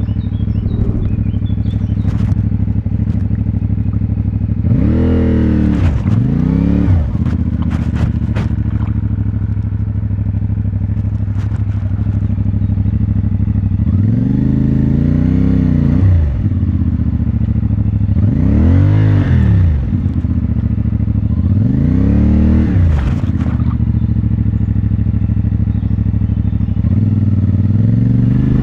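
CFMoto 450MT parallel-twin engine idling through its stock exhaust, with about six short throttle blips, each rising quickly in pitch and falling back to idle.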